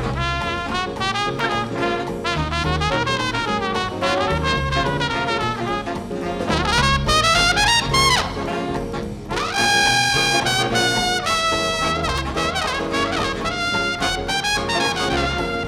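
A jazz band playing live, with a brass instrument taking a solo of quick runs over a bass line, then holding one strong long note about ten seconds in.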